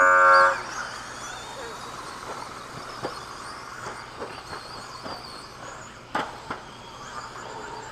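An electronic race-start beep ends about half a second in, then RC stadium trucks take off and race, their motors whining high and rising and falling in pitch. A few sharp knocks come around three and six seconds in, typical of trucks landing or hitting the track.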